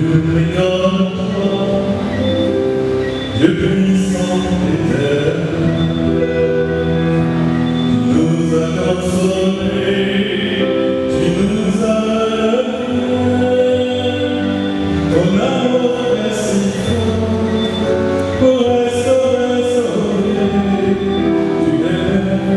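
Church choir singing a hymn in long held notes, with musical accompaniment.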